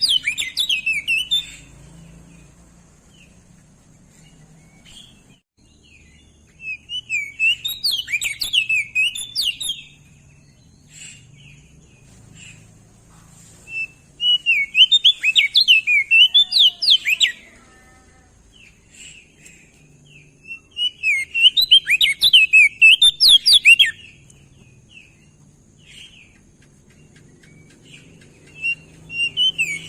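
Crested white-eye (opior jambul) singing: it gives about five rapid, warbling, twittering phrases, each two to three seconds long, about seven seconds apart, with a few soft chips between them.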